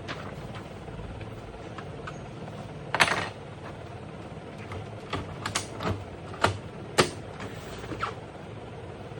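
A series of sharp clicks and knocks at irregular spacing, the loudest about three seconds in and a cluster between five and eight seconds, over a steady low hum.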